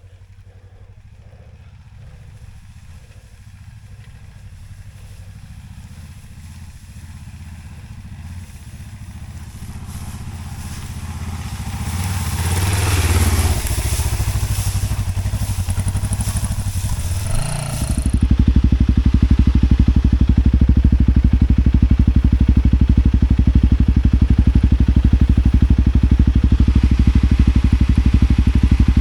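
Off-road motorcycle engines. The first one grows steadily louder over the first dozen seconds and is loudest about halfway through. About eighteen seconds in, a much louder, steady low engine note starts suddenly and carries on.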